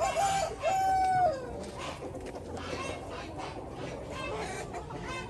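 A rooster crows once in the first second and a half, ending in a long held note that falls away, while hens cluck steadily throughout.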